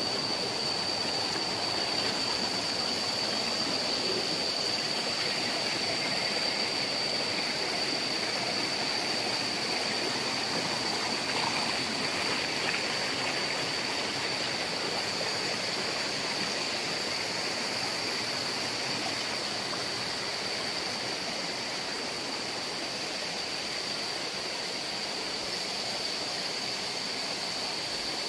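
Waterfall water rushing steadily, an even hiss with a thin, steady high-pitched tone running through it.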